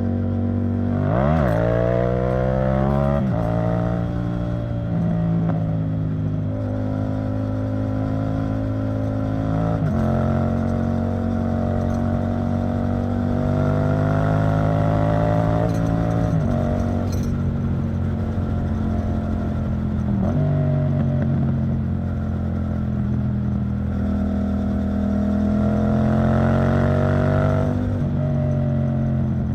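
Yamaha MT-07's parallel-twin engine through an Arrow Thunder titanium exhaust, under way: a quick sharp rev just after the start, then the pitch climbs steadily and drops suddenly several times, as at gear changes.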